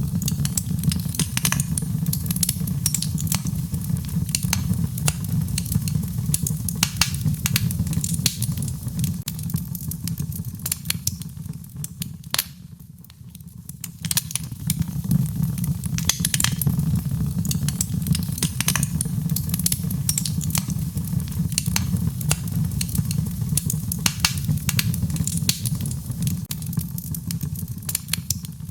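Wood fire in a fireplace crackling, with frequent sharp pops, over a steady low rush of rain. Everything drops away briefly about halfway through, then returns.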